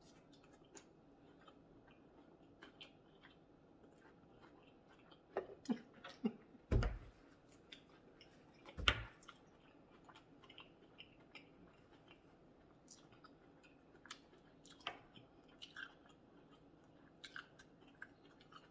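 A person chewing and biting food close to the microphone, eating sausage, rice and cucumbers in sauce. Small scattered mouth clicks throughout, with a few louder bites about five to nine seconds in.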